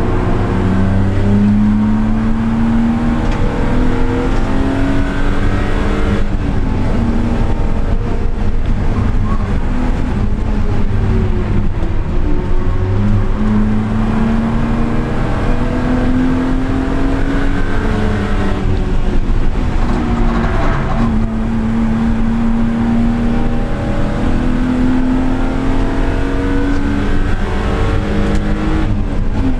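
A car's engine and exhaust under hard driving, the pitch climbing through the gears as it accelerates. Twice the revs fall away for several seconds, once past the first quarter and again around two-thirds through, before it pulls hard again.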